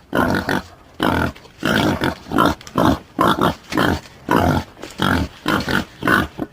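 Boar grunting over and over in a steady series of short grunts, about two a second.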